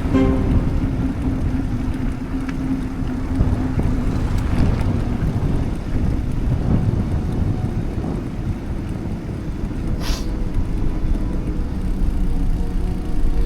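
Steady low rumble of wind buffeting the microphone, mixed with tyre and road noise from a bicycle in motion, with a brief hiss about ten seconds in.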